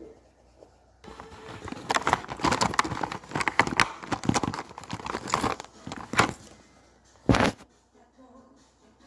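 Coloring pens and paper being handled: a run of scratchy strokes, rustles and clicks, then one louder thump about seven seconds in.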